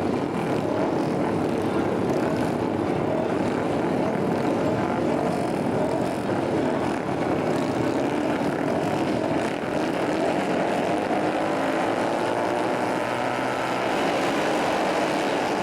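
A pack of flat-track racing motorcycles running hard together, a dense, steady engine din with engines rising in pitch now and then as riders get on the throttle.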